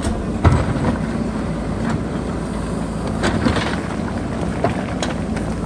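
JCB backhoe loader's diesel engine running steadily under work, with a few short sharp knocks.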